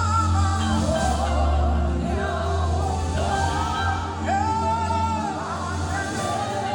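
Worship song: a singer's voice over a sustained bass and keyboard backing.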